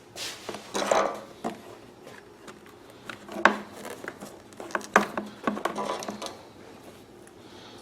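Small metal clicks and clinks of a hose clamp and tools being handled, with a few sharp clicks spread through it between quieter rustling.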